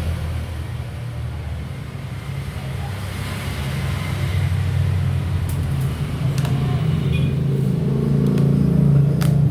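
A steady low motor-vehicle engine rumble that grows louder in the second half, with a few light clicks near the end.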